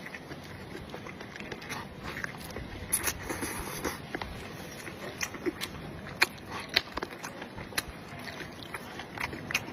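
A person eating close to the microphone: chewing, with irregular wet smacking clicks of the mouth.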